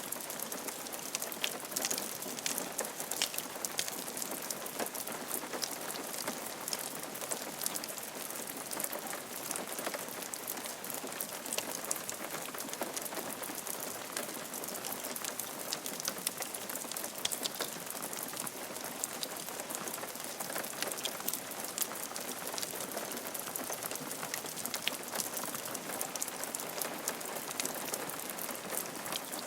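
Steady rain falling on a roof: an even hiss with many fine, close-spaced drop ticks.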